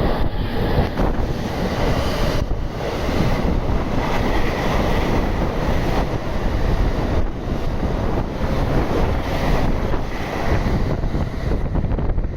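A train passing through a station, a loud, steady rush of wheels and air, with wind buffeting the microphone.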